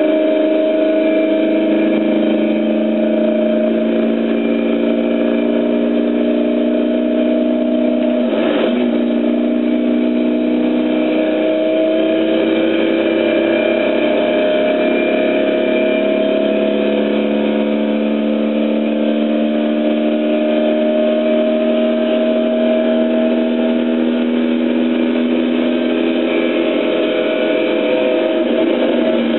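Car engine heard from inside the cabin, pulling hard uphill. Its pitch climbs slowly in each gear and drops at gear changes about eight and a half seconds in and again around halfway through.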